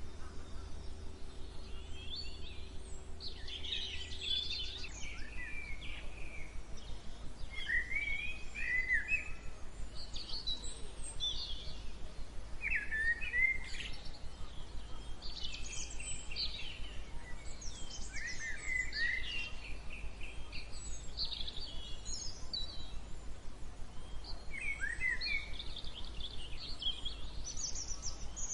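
Songbirds singing, several short chirping and warbling phrases overlapping one after another, over a steady low rumble.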